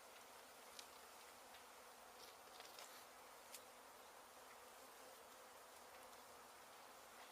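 Honey bees of an exposed hive buzzing in a steady, faint hum, with a few faint clicks.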